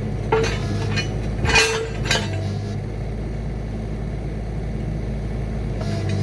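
Mini excavator engine running steadily, with a few sharp metal clanks that ring briefly in the first two seconds, the loudest about a second and a half in.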